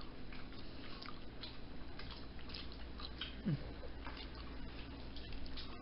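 A person chewing food, with scattered soft wet clicks and smacks of the mouth: eating french fries dipped in sauce.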